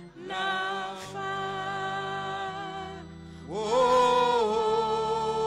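A slow hymn sung in long held notes over steady, sustained low accompaniment notes. A new, louder sung phrase begins about three and a half seconds in.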